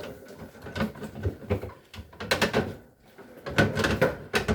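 Irregular knocks, bumps and scrapes from a refrigerator being handled and moved.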